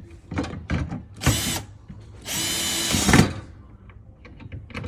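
Power drill driving a screw into the bed frame: a brief spin about a second in, then a steady run of about a second that gets louder just before it stops.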